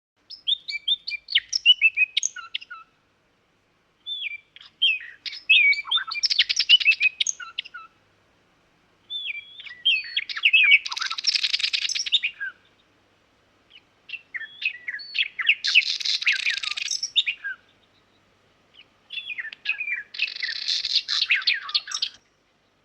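Nightingale singing: five phrases of about two to three seconds each, separated by short pauses. Each phrase starts with quick varied chirps and runs into a fast rattling trill.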